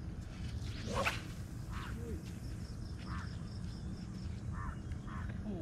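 Birds calling over a steady low background noise: a rising call about a second in, then short calls every second or so, with a fast, even high chirping running through.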